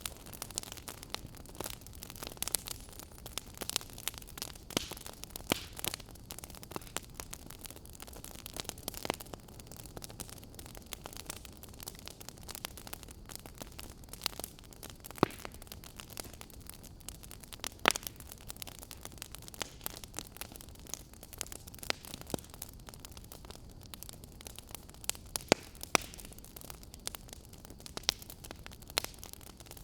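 Wood fire crackling in a fireplace: irregular sharp pops and snaps over a low steady hiss, the loudest pops coming about 18 seconds in and again near the end.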